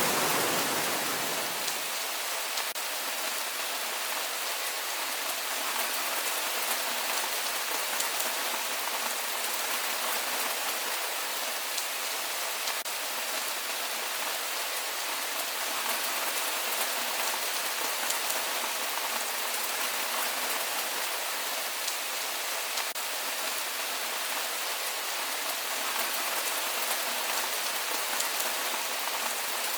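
Heavy rain falling steadily: an even hiss with fine pattering of drops. A louder, deeper rush fades away over the first two seconds.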